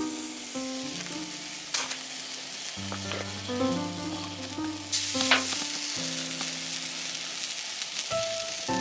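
Steady sizzling and crackling at a campfire, with sharp pops about two seconds in and about five seconds in, over background music of held notes.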